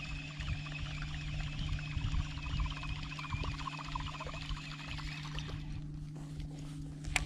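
Fishing reel cranked in a steady fast retrieve, its gears giving a wavering whir with fine ticking, which stops about five and a half seconds in; a sharp click follows near the end. A steady low hum runs underneath.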